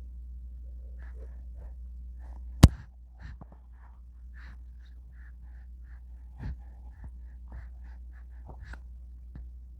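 A baby's soft breaths and small mouth sounds over a low steady hum, with one sharp loud click about two and a half seconds in.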